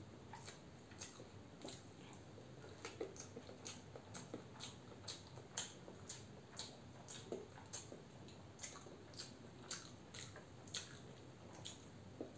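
Boiled egg being chewed close to the microphone, with a steady run of small wet mouth clicks about two a second.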